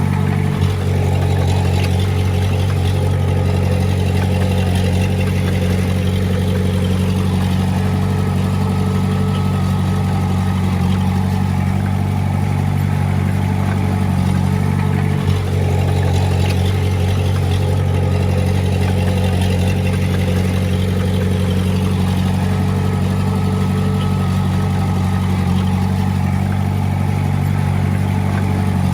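Small Komatsu D20A bulldozer's diesel engine running steadily at a constant speed, with two brief dips about a second in and halfway through.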